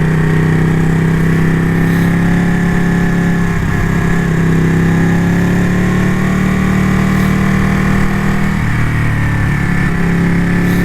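Ducati motorcycle engine running steadily while riding, its note dipping briefly twice, about four and nine seconds in.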